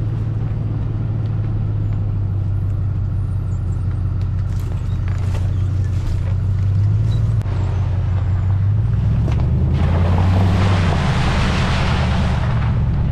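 A 4WD's engine running steadily under way, its note shifting about seven seconds in. From about ten seconds a rushing noise builds over the engine and holds until near the end.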